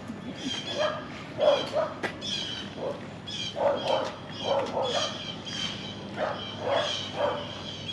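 Small dogs barking and yipping over and over in short, irregular bursts.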